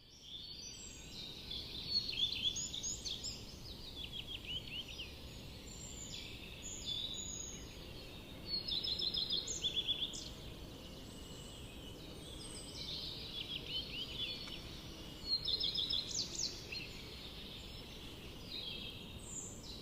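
Several wild birds calling, with repeated quick chirps and rapid trills, over a faint steady background hiss.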